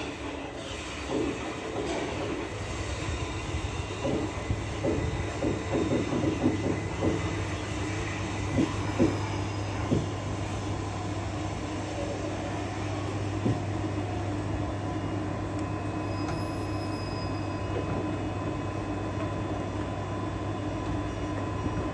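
Southern Class 377 Electrostar electric multiple unit pulling into the platform and stopping: its wheels knock over rail joints several times, then it stands with a steady electrical hum.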